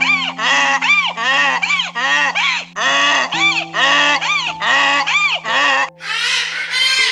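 A rapid series of loud animal calls, about two a second, each rising and falling in pitch, over steady held background music notes. Near the end it changes to a harsher, noisier call.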